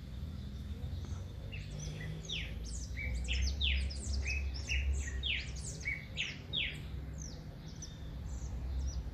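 A songbird singing a rapid run of short, quick-falling chirps that starts about a second and a half in and stops shortly before the end, over a steady low rumble.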